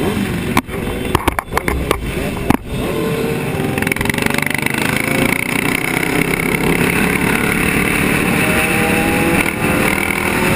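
Road traffic: motor vehicle engines running, their pitch drifting slowly up and down, with several abrupt clicks in the first three seconds.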